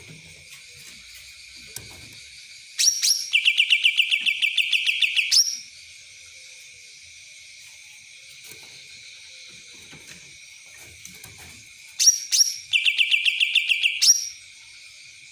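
A cucak ranting songbird sings twice, each phrase a few sharp notes followed by a fast rattling trill of about ten notes a second lasting some two seconds. The song carries a kapas-tembak-like quality. A steady high buzz runs underneath.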